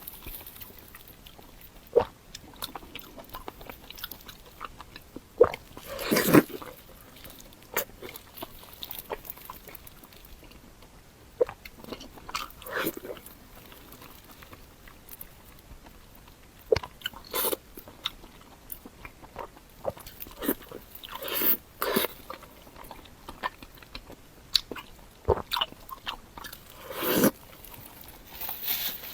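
Close-miked eating sounds: crunchy bites and chewing, in irregular sharp crunches and short smacks every second or two.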